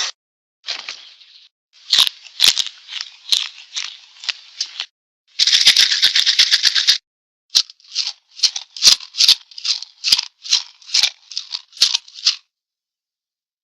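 Dry rattling, like a shaken rattle or maraca, in separate runs. First comes a short burst, then a run of quick shakes, then a dense rattle lasting about a second and a half. After a short gap, about a dozen single shakes follow at roughly two a second.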